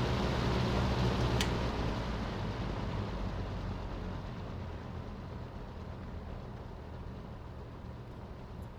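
1984 Lakewood P223 box fan running, its air rush and motor hum easing off gradually as the fan slows from high to medium speed. A faint click comes about a second and a half in.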